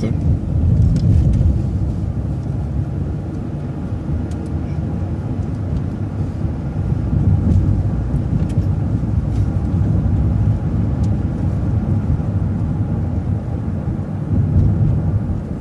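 City transit bus driving along, heard from inside: a steady low rumble of engine and road noise.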